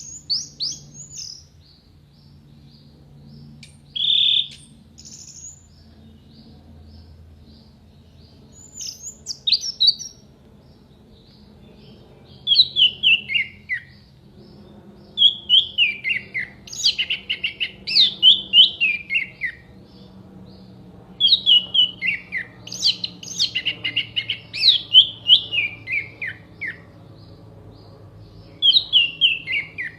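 Orange-headed thrush (anis merah) singing. It gives a few short, spaced notes in the first seconds, then from about twelve seconds in, fast phrases of sharp falling notes, repeated with short pauses. A faint steady low hum runs underneath.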